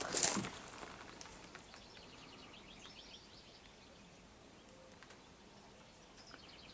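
A brief rustle at the start, then faint outdoor ambience with a rapid, high chirping trill from a small wild creature, heard twice, about two seconds in and again near the end.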